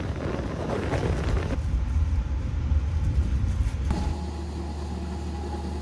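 A train running along the track, heard from a carriage window as a rushing rattle with a heavy low rumble. About four seconds in, this gives way to a CC 206 diesel-electric locomotive idling with a steady low hum.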